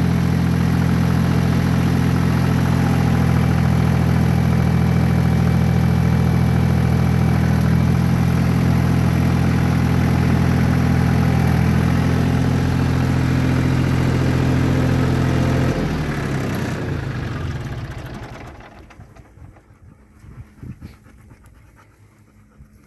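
Yanmar F20D compact diesel tractor engine running steadily at idle, then shut off about sixteen seconds in and running down to a stop within a couple of seconds. A few faint knocks follow in the quiet.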